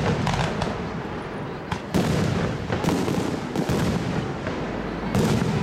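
Aerial fireworks shells bursting in quick succession: a string of sharp bangs, about five, each trailing off in an echoing rumble.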